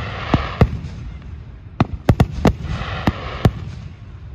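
Aerial fireworks shells bursting: a string of sharp bangs, about eight in all, coming in two clusters, one in the first second and one from about two to three and a half seconds in.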